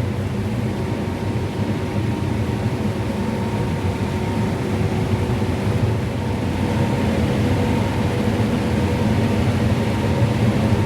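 Combine harvester running while shelling corn, heard from inside the cab: a steady engine and machinery drone with a faint constant whine over it, growing slightly louder toward the end.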